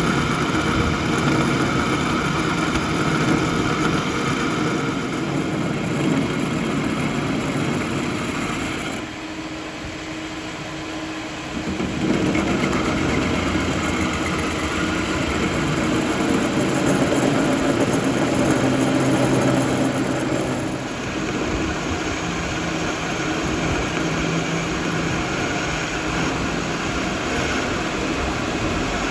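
Metal-working lathe running steadily, most likely turning a cut on the gear shaft. About nine seconds in it drops quieter for roughly three seconds, then comes back up abruptly.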